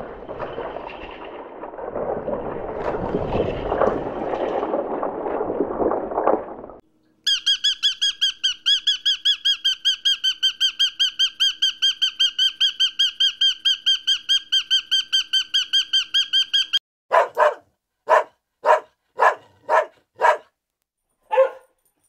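A rushing, rumbling noise, then a bird's high-pitched call repeated rapidly and evenly, about four to five times a second, for around ten seconds. It is followed by a dog barking about seven times in short separate barks.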